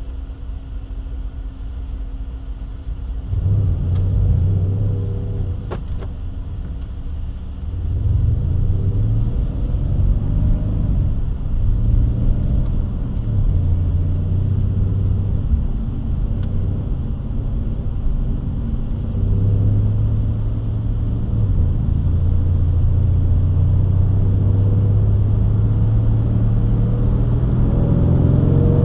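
2016 Mercedes-AMG C 63 S twin-turbo V8 heard from inside the cabin. It runs quietly for about three seconds, then accelerates hard and surges and eases several times under load, holding high revs for the last several seconds.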